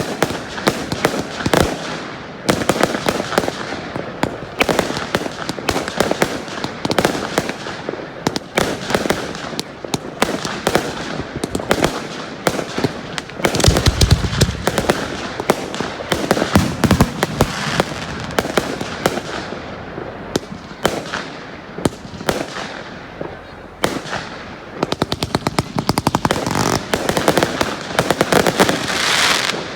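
A firework display: aerial shells bursting in quick succession with crackling, a deep boom about halfway through, and a dense run of rapid crackling bangs near the end.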